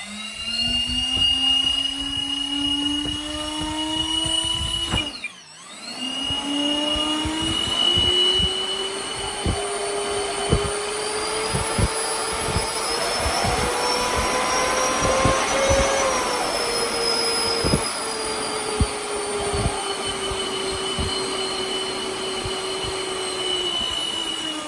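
E-flite A-10 RC jet's electric ducted fans running with 3D-printed whistles fitted in the nacelles, giving a jet-like whine with a steady high whistle on top. The pitch climbs for about five seconds and cuts out briefly. It then rises steadily to a peak about two-thirds of the way through and eases back down near the end.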